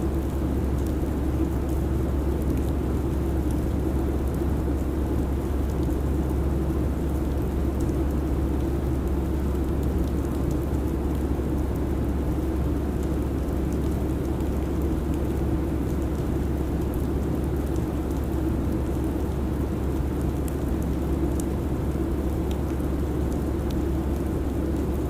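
Steady airliner cabin noise in cruise: a constant low rumble with a hiss over it and a few faint ticks.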